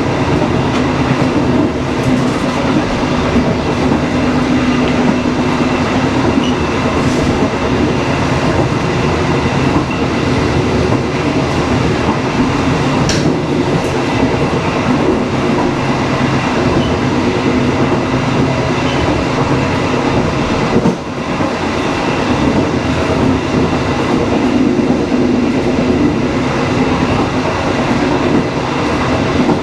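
Dharmawangsa passenger train running along the rails at speed: a steady rumble of wheels and carriages with a low hum and occasional faint knocks from the track.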